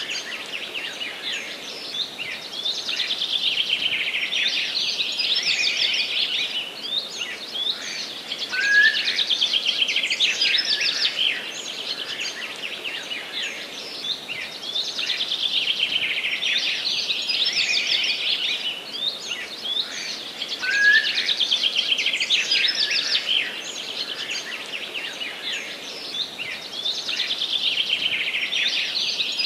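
Forest birds singing together: a dense, continuous chorus of high chirps and trills that swells and eases in waves every few seconds.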